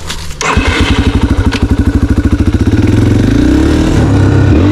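Dirt bike engine opened up hard from low revs about half a second in. Its individual firing pulses quicken as the bike accelerates and merge into a steady, rising engine note. This is the throttle being pulled for a wheelie.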